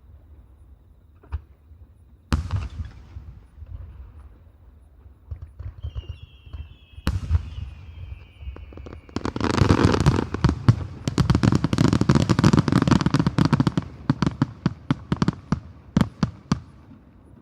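Fireworks display: single shells bursting with sharp booms, then a long whistle falling slightly in pitch, followed by a dense burst of rapid crackling bangs that thins out to a few last cracks near the end.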